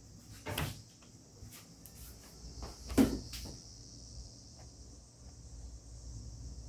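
A few knocks and clatters of dishes and kitchen cupboard doors being handled, the loudest about three seconds in. A steady high hiss runs underneath.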